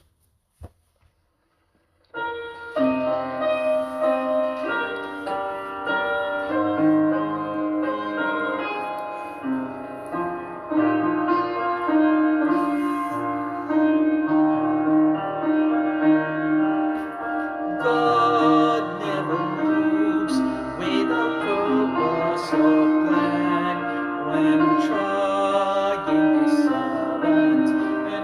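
Piano playing the opening of a worship song, starting after about two seconds of silence. A singing voice with vibrato joins about two-thirds of the way through.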